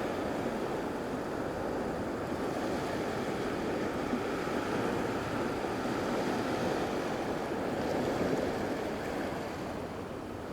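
Surf washing onto a sandy beach in a steady rush, with wind buffeting the microphone; it eases a little near the end.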